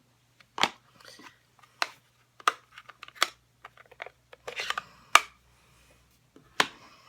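Sharp plastic clicks and taps of a stamp pad case and acrylic stamp block being handled on a craft desk, about eight of them, with light rustling between. The loudest tap comes about five seconds in.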